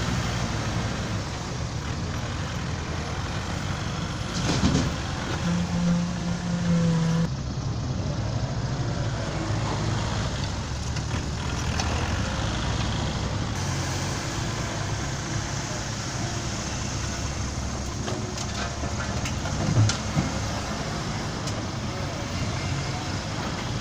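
Diesel dump truck engine running steadily, with a couple of sharp knocks.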